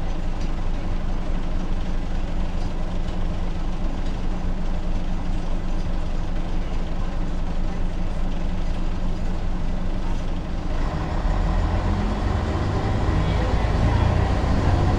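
Ikarus 280 articulated city bus's diesel engine running steadily at low speed, growing louder and heavier from about two-thirds of the way in.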